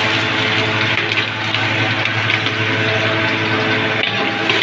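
Sliced garlic and ginger sizzling steadily in hot oil in an aluminium pot.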